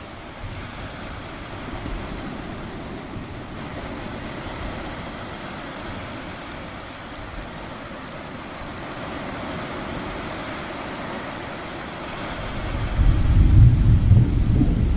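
Steady wash of ocean waves, then near the end a low rumble of thunder sets in suddenly and becomes the loudest sound.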